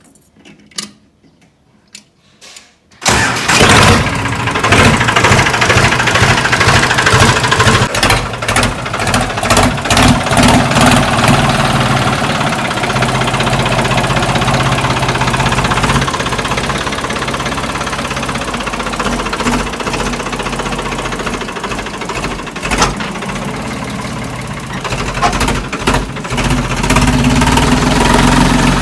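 Farmtrac diesel tractor engine started about three seconds in, catching at once and then running on, uneven for several seconds before settling to a steady run.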